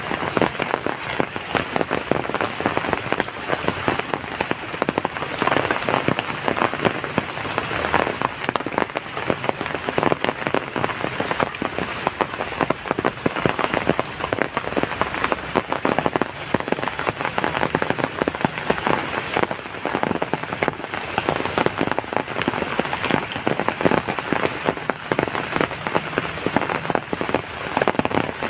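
Heavy rain pouring steadily, a dense patter of countless drops striking a surface.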